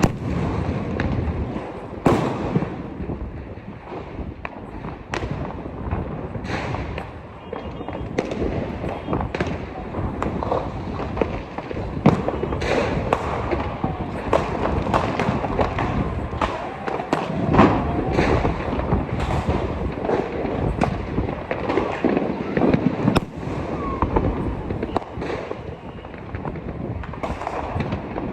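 Fireworks and firecrackers going off continuously: many sharp bangs and cracks of varying loudness, some close and some farther off, over a constant rumble of other explosions. People's voices are heard underneath.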